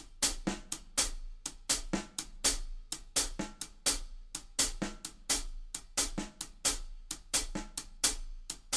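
Drum kit playing a shuffle on the hi-hat with quiet snare ghost notes set between the shuffle strokes: an even, steady run of several strikes a second.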